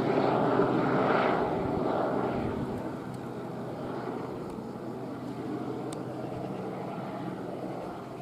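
Airbus AS350 helicopter's turbine and rotor running overhead. The sound is loudest in the first two or three seconds, then fades and holds steady as the helicopter moves off.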